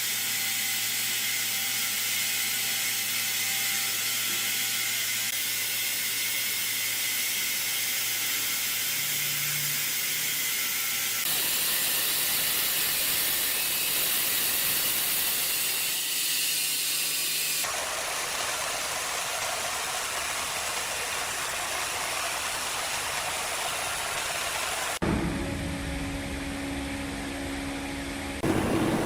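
Woodworking machinery running with a steady mechanical noise, in several stretches that change abruptly a few times.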